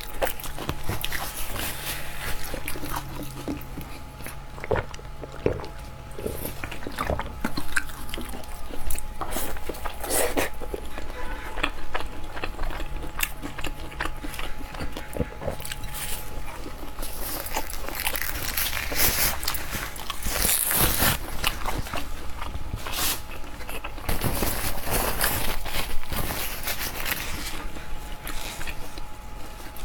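Close-up eating sounds: a person biting and chewing food, with irregular wet clicks and crunches.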